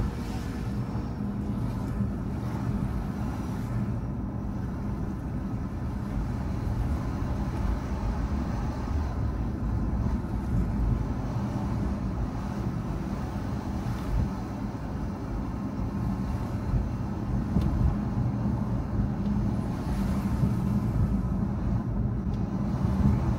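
Car driving along: a steady low engine hum mixed with tyre and road noise.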